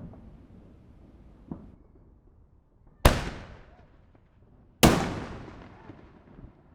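Two loud firework bangs about two seconds apart, each trailing off in a long echoing tail, with a few fainter pops of distant fireworks around them.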